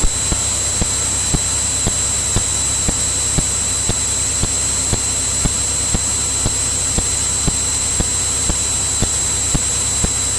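Steady engine and cabin drone of a Cirrus single-engine piston airplane in cruise, as heard in the cockpit recording, with a high steady whine over it and a sharp tick about twice a second.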